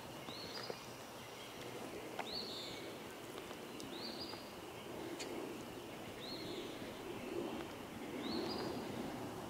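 A songbird calling the same short rising note six times, a little under two seconds apart, over a faint steady rustle of woodland background.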